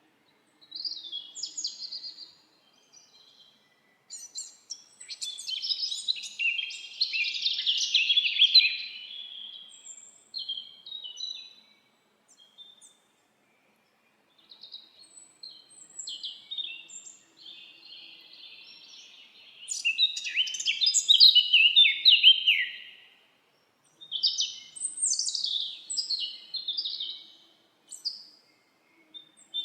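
Songbirds singing in a forest: bursts of quick, high warbling phrases with short silent pauses between them, busiest about a quarter of the way in and again about two-thirds through.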